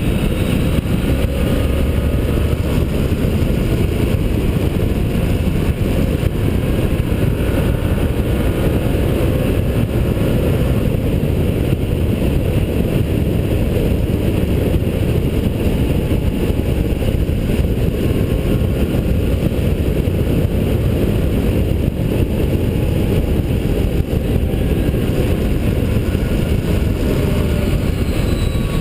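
Motorcycle running at speed on a racetrack, its engine note rising and falling through gear changes under heavy wind rush on the microphone.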